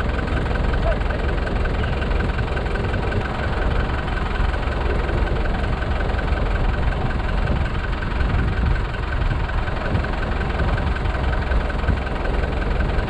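Small tractor engine running steadily.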